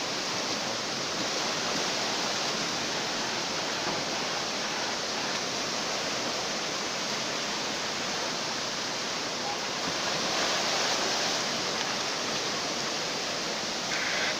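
Steady rushing roar of swollen floodwater during a flash flood.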